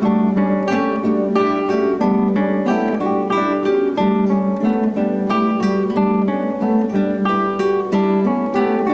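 A quartet of acoustic guitars playing a steady stream of rapid, repeated plucked notes that overlap continuously without a break.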